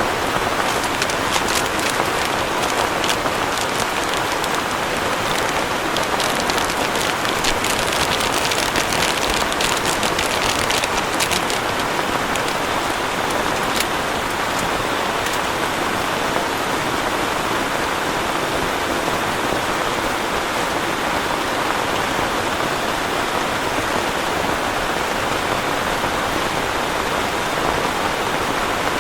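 Heavy rain falling steadily, with a spell of close, sharp drop ticks over the first dozen seconds.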